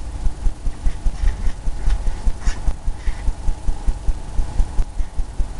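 Paintbrush dabbed quickly against a canvas on its easel, a regular low thumping about five times a second.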